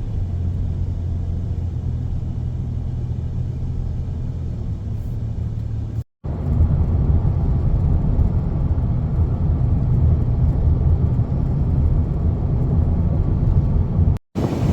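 Steady road and engine rumble inside a moving van's cabin. It cuts out abruptly twice, briefly, about six seconds in and near the end, and is louder after the first gap.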